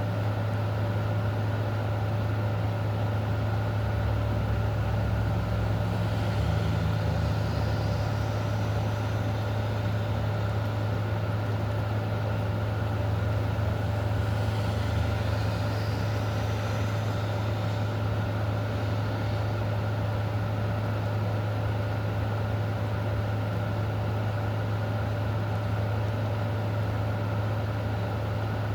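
A steady low mechanical hum, like an idling vehicle engine, under a constant hiss that fits heavy rain. Two faint rising whooshes come and go a few seconds apart, about a quarter and half of the way through.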